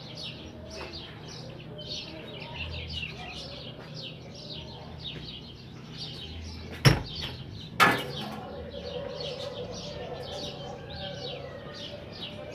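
Small birds chirping steadily in quick, high repeated notes. About halfway, two sharp knocks about a second apart stand out as the loudest sounds.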